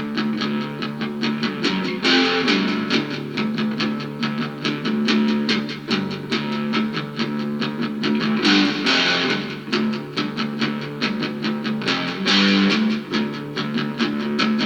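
Instrumental break in a rock song: electric guitars and bass playing over a steady drum beat, with no singing.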